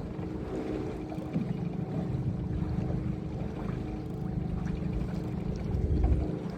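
Fishing boat's motor running steadily as the boat moves over the water, with wind buffeting the microphone and a low rumble that swells near the end.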